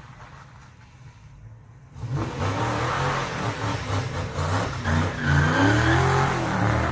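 Car engine running low for about two seconds, then revved hard and held high with a wavering, climbing pitch over a rough hiss, as in a burnout. It eases off near the end.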